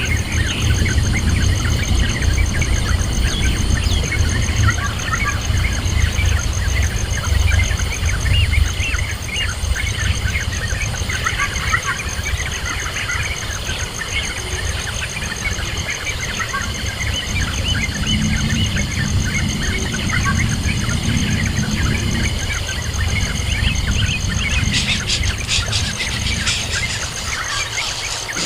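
Birds chirping: many short, high calls scattered throughout, over a heavy continuous low rumble and a faint steady high tone.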